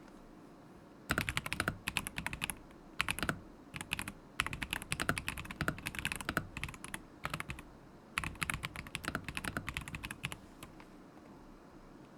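Typing on a mechanical keyboard, a KZZI K75 Pro with linear switches: quick runs of key clacks in several bursts with short pauses between them, stopping about two seconds before the end.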